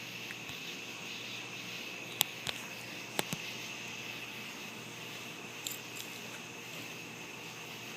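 A 2010 Ford 6.4L Power Stroke V8 turbodiesel idling quietly through its stock exhaust, with the diesel particulate filter still in place. A steady high-pitched chirr runs under it, and a few sharp clicks come about two to three and a half seconds in.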